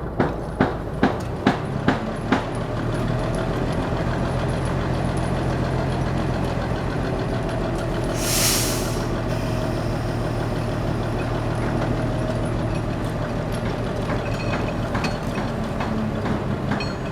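An engine running steadily, with regular clicking about three times a second at the start and a short hiss of air about eight seconds in.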